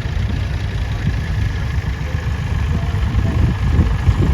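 Vintage tractor engines running at idle, a steady low rumble with an uneven pulse.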